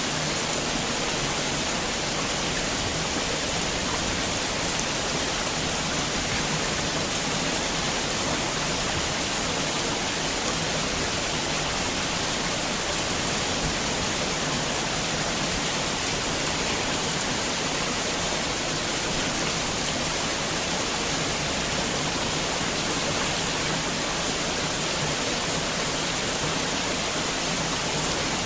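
Heavy rain falling steadily, a dense, even hiss with no separate drops or changes.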